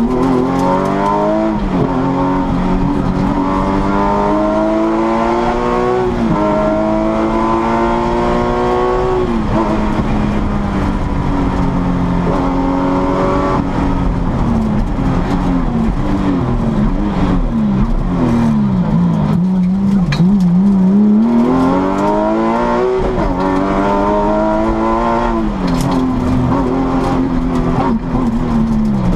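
Porsche 996 GT3's flat-six engine heard from inside the cabin, accelerating hard up through the gears: the pitch climbs and drops sharply at each upshift. Through the middle the revs waver lower as the throttle comes off and on, then climb through the gears again near the end.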